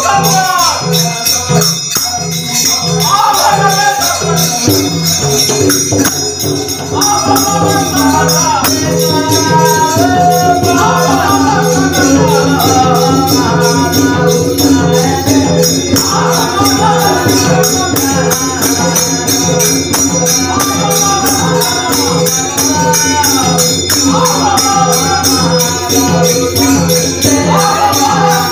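Devotional bhajan singing accompanied by jhal hand cymbals jingling in a fast, even rhythm and a drum keeping a steady beat.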